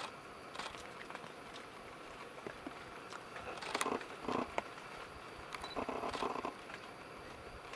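Golden-winged laughingthrush sounds: scattered soft rustles and clicks, with two clusters of short harsh bursts in the middle and one brief high note.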